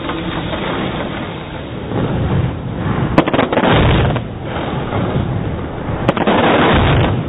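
Daylight fireworks shells launching and bursting in a dense barrage of overlapping booms, with sharp cracks about three seconds in and again about six seconds in.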